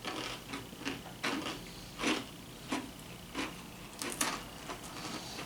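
Someone chewing crunchy toasted cracker rounds close to the microphone: irregular sharp crunches, one or two a second.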